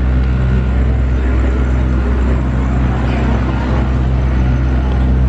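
River tour boat's motor running steadily, a constant low hum.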